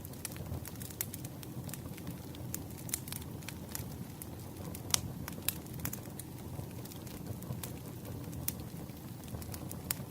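Campfire crackling: a steady low rumble of burning wood with frequent irregular sharp pops and snaps, the loudest pop about five seconds in.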